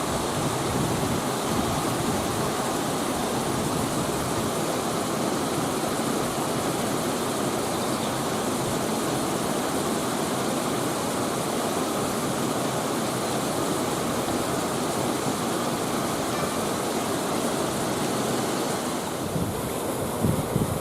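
Steady rushing of water, an even noise with no rhythm or pitch. A few low thumps come near the end.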